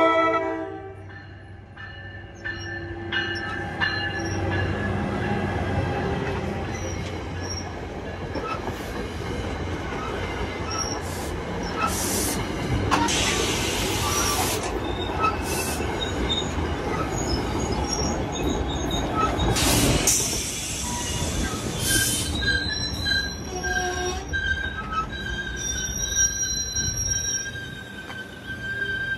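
NJ Transit commuter train pulling into the station, the tail of its horn blast right at the start, then the stainless-steel coaches rolling past on the rails. Two bursts of hiss come midway. Wheels and brakes squeal with steady high tones near the end as the train slows to a stop.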